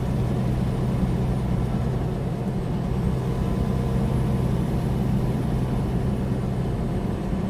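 Loaded semi-truck's diesel engine and road noise at highway speed, heard inside the cab: a steady low drone.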